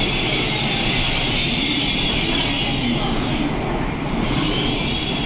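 N700S Shinkansen train pulling out of the station, its cars running close past with a steady rushing noise.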